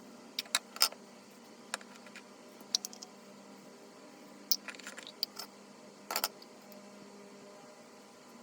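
Irregular sharp clicks and light clinks, a dozen or so spread unevenly, like small hard objects being handled, over a faint steady hum.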